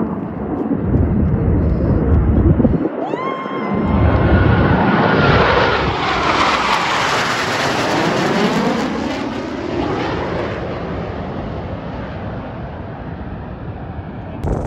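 Lockheed Martin F-22 Raptor's twin afterburning turbofans in a flyby. A jet roar swells to a peak around the middle and then slowly fades, with a rising whine about three seconds in.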